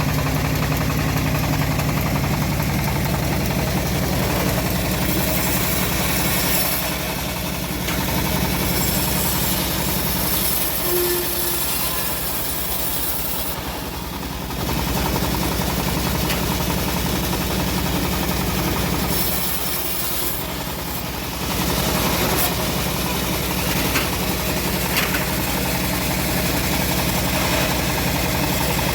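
Engine of a homemade bandsaw sawmill running steadily under way, its loudness dipping briefly a few times.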